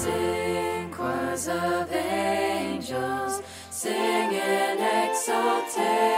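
Music: several voices singing together in harmony, with little or no accompaniment.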